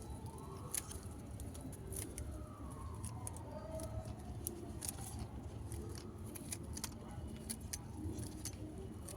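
Pruning scissors snipping through jade plant stems: a string of sharp, irregular snips and clicks. A faint wail falls slowly in pitch in the background.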